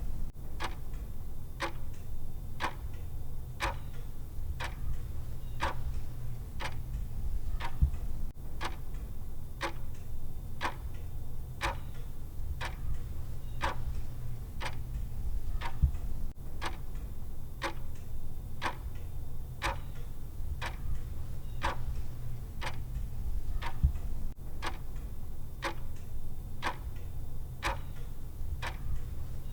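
Clock-tick sound effect of a countdown timer, ticking steadily and evenly over a steady low hum.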